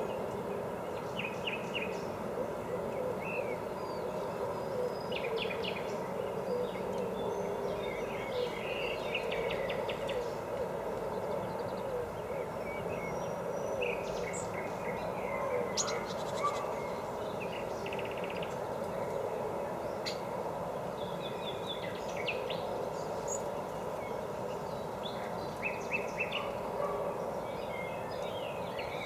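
Small birds chirping, with short calls and brief trills scattered throughout, over a steady low background hum.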